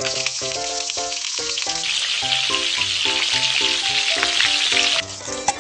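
Food sizzling in hot oil, a steady hiss that grows louder about two seconds in and cuts off abruptly about five seconds in, under music of short, repeated notes.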